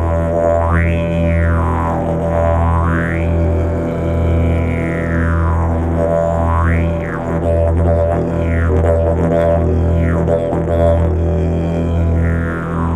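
Didgeridoo playing a steady low drone with continuous breath, its overtones swept up and down in repeated rising-and-falling wah-like arcs every second or two.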